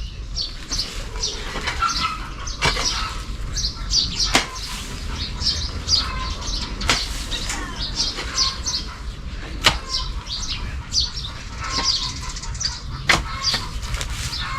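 Small birds chirping busily, short quick calls several times a second, with a handful of sharp clicks or knocks scattered through and a low steady rumble underneath.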